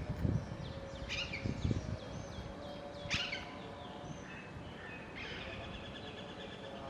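Small birds chirping in short, separate calls, each a quick falling sweep, about three bursts over several seconds. A faint steady hum runs beneath them.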